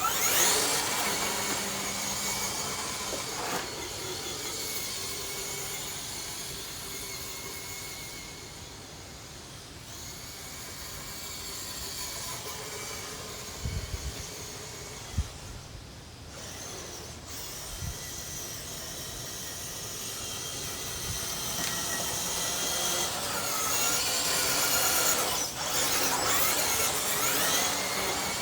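Electric motor and gear drivetrain of a 1941 Willys Jeep RC crawler whining as it drives, the pitch rising and falling as the throttle changes, with sharp rises at the start and again near the end. A few dull thuds about halfway through.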